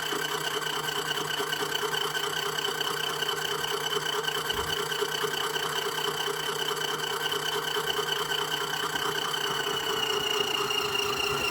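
Mini washing machine spinning at a steady speed, its motor giving a steady whine over a rattling hum.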